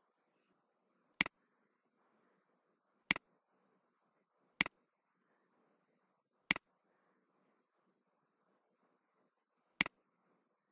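Computer mouse button clicked five times at uneven gaps, each a sharp click followed at once by a smaller one.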